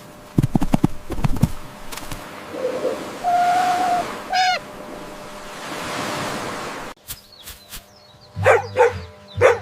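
Dog whining and barking: a drawn-out whine in the middle, then three sharp barks near the end.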